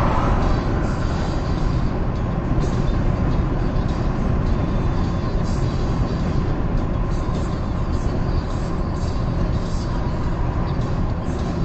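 Car driving on a highway: a steady rumble of road and engine noise.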